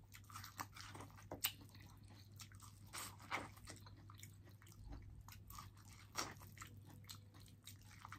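Close-miked chewing and biting of boiled corn on the cob: soft mouth clicks and scattered crunches as kernels are bitten off, the sharpest a little over a second in, around three seconds and about six seconds in. A steady low hum runs underneath.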